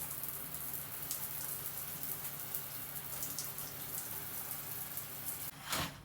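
Falling water pattering steadily with many fine drips and splashes, stopping about five and a half seconds in, followed by a brief whoosh.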